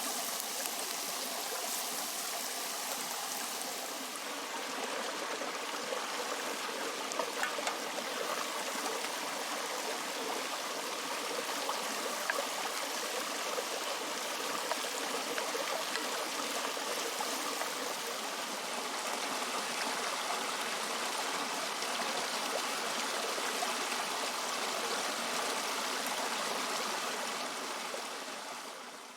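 Creek water running, a steady rushing that fades out near the end.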